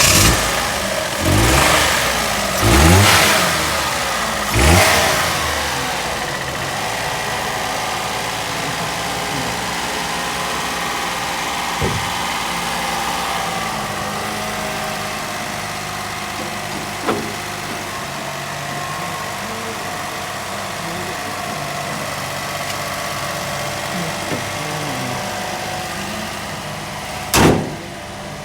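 Toyota Vitz's petrol engine, just started, blipped up and back down three times in quick succession, then settling to a steady idle. A few light clicks, and one sharp loud knock near the end.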